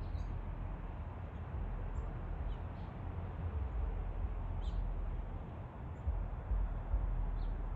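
Outdoor ambience: a steady low rumble, with a few faint, short bird chirps scattered through it.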